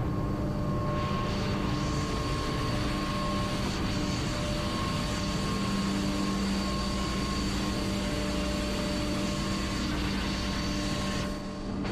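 Ship's engine-room machinery running: a loud, steady drone with several constant hums over a broad hiss, dipping briefly near the end.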